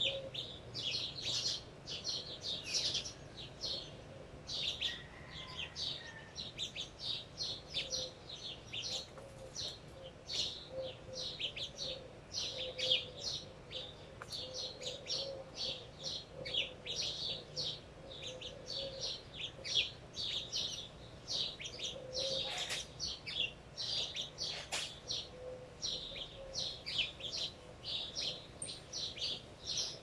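Small birds chirping in a dense chorus of short, quick chirps, with softer, lower notes recurring underneath. Two sharp clicks stand out a little past the middle.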